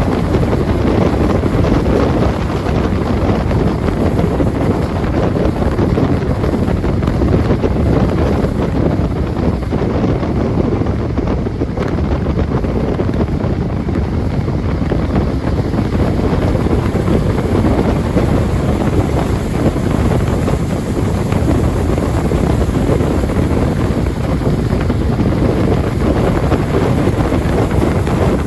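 Heavy wind buffeting on the microphone over the steady rush of a jet boat running on a river.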